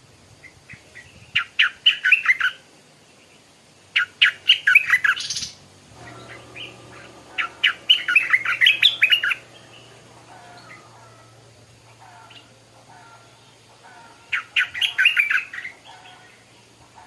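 Stripe-throated bulbul singing: four short phrases of quick notes with pauses between them. A faint low steady hum comes in about six seconds in.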